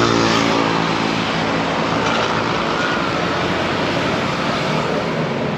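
A motor vehicle running steadily, with a constant engine hum and road noise.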